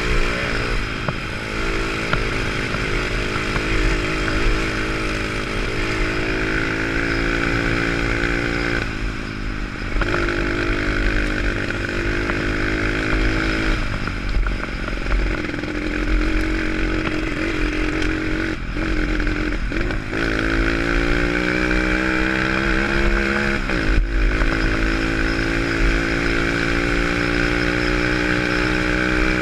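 Pit bike's single-cylinder four-stroke engine being ridden, its revs repeatedly climbing and dropping as the throttle is opened and closed, with several short cuts in the revs along the way.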